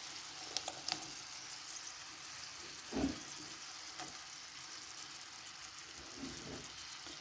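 Pork strips frying in oil in a nonstick pan: a steady sizzle, with a few light clicks and a soft thump about three seconds in as chopped spring onion is added.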